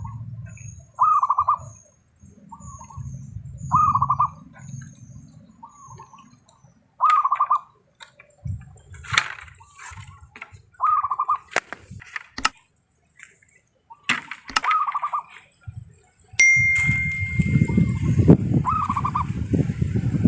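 Zebra dove (perkutut) cooing in short trilled phrases, repeating every second or two. A few sharp clicks, then rustling and rumbling handling noise over the last few seconds.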